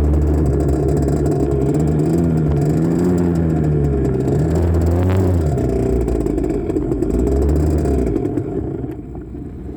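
Two-stroke single-cylinder engine of a 1984 Honda CR80R dirt bike being ridden, its pitch rising and falling with the throttle, heard through a bike-mounted phone. About eight seconds in the engine note drops away, as the bike gives out on a run the rider puts down to running low on fuel.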